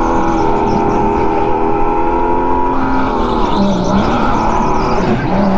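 Rental go-kart running at speed, heard from the driver's seat. It holds a steady pitch, eases off a little past halfway, then climbs back up.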